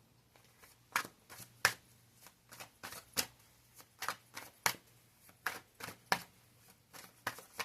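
Tarot cards being shuffled and handled: a string of irregular, sharp card snaps and taps, about one or two a second.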